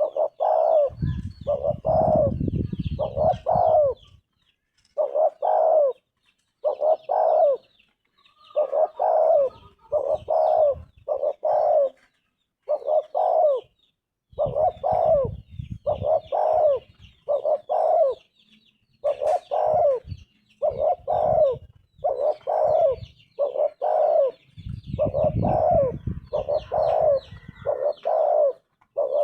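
Spotted dove cooing: short, low coo notes in phrases of two or three, repeated over and over. Faint, higher chirping sits behind it, and a low rumble comes and goes.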